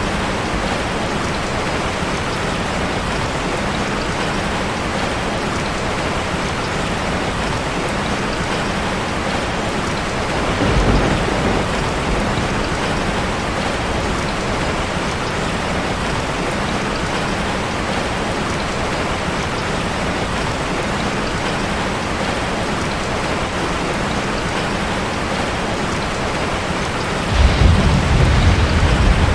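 Steady heavy rain drumming on a metal roof. There are two brief low rumbles, one about eleven seconds in and a louder one near the end.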